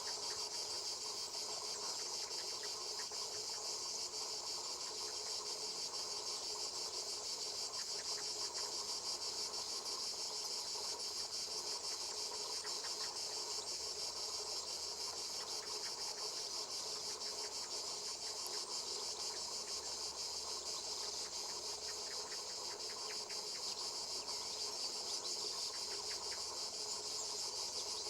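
A continuous, high-pitched insect chorus buzzing steadily without a break.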